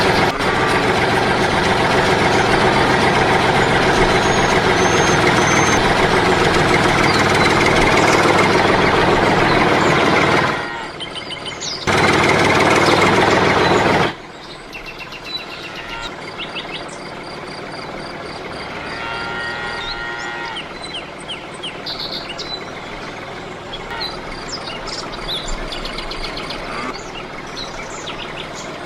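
A motor running loudly and steadily, dropping out briefly and then cutting off about halfway through. After that, quieter background with birds chirping.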